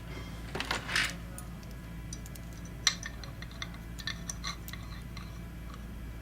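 Two short swishes, then a quick run of small sharp clicks and clinks, like small metal parts being handled and set down, over a steady low hum.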